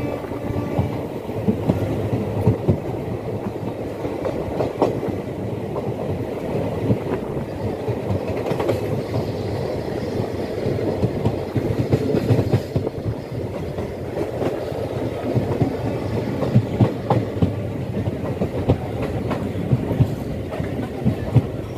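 Janmabhoomi Express passenger train running, with a steady rumble and irregular clicks and knocks as its wheels pass over rail joints.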